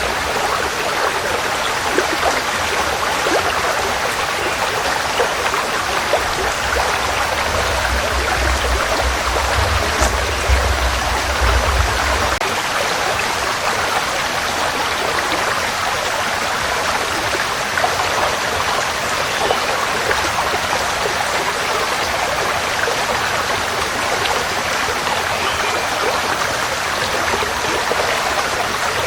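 Forest stream flowing steadily, an even rushing and splashing of water, with a low rumble underneath that stops about twelve seconds in.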